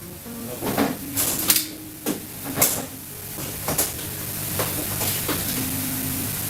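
Kitchen clatter: several sharp knocks of cookware or utensils, then a steady hiss that grows louder from about halfway through.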